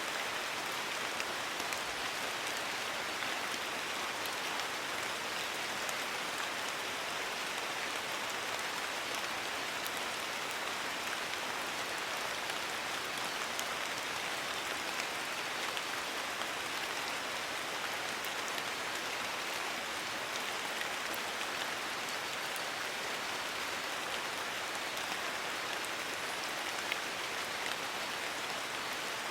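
Steady rain falling on foliage, an even hiss with scattered drop ticks.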